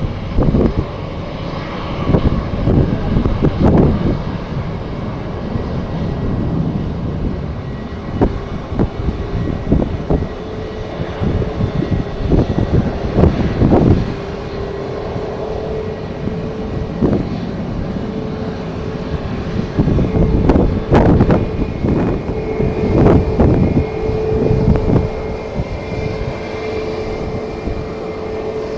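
Jet airliner engines running, with a steady whine that sets in partway through and holds to the end, under strong gusty wind buffeting the microphone.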